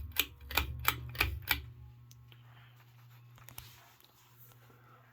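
1987 Davimport/Equinox E-52 ceiling fan motor starting up and running with a steady low hum. In the first second and a half there is a quick run of about six sharp clicks.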